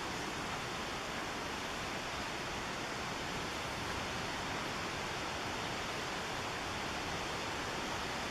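Steady rushing of the McKenzie River's whitewater, an even roar with no break.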